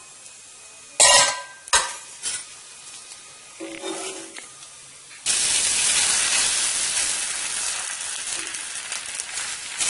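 Egg and chapati frying on a hot iron tawa: a few sharp clicks of a spoon and spatula against the pan early on, then loud sizzling that starts suddenly about five seconds in, as the egg-coated chapati is folded onto the hot iron, and slowly eases.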